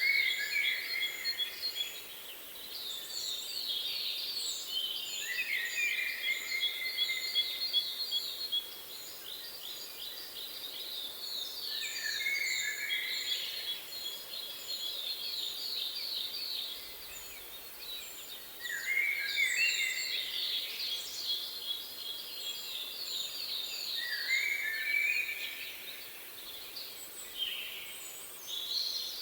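Several songbirds singing together: fast trills and chattering phrases recur every few seconds, with a row of short, thin high notes above them.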